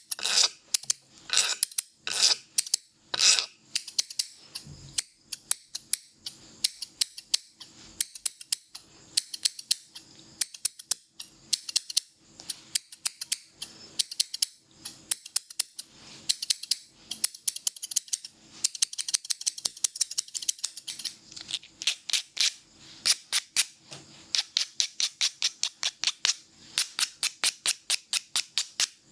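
Hairdressing scissors snipping close to the microphone in a long run of sharp snips, two or three a second at first and quicker and denser in the last third.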